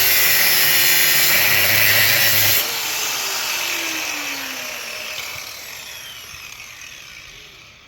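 A power tool cutting into a scrap electric motor runs loudly and steadily, is switched off about two and a half seconds in, and winds down with a slowly falling whine that fades away.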